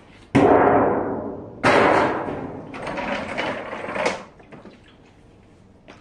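Handling noise: three loud, sudden knocks, each trailing into a scraping rattle that fades over about a second, as hard objects are moved or bumped.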